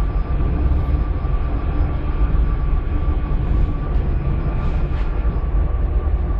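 Dubai Metro train running, heard from inside the passenger car: a steady low rumble with a constant high whine over it.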